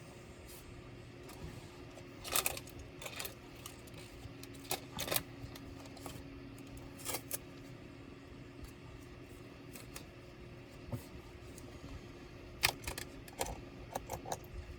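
Irregular small clicks and clinks of tools and small parts being handled while a laptop is disassembled, with the loudest clicks a couple of seconds in, around five seconds in and near the end. A steady faint hum runs underneath.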